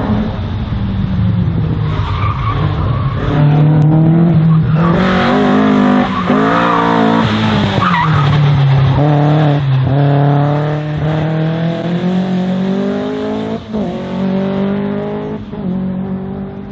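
Race car engine on an autoslalom run, revs climbing and dropping again and again as the car accelerates and lifts between the gates, with tyres squealing in the turns.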